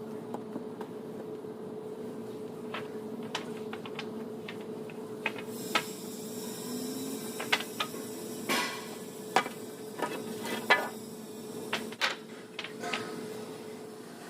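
Irregular knocks and clatter from work in a woodworking shop, over a steady hum. The knocks come more often and louder from about halfway, when a hiss also joins.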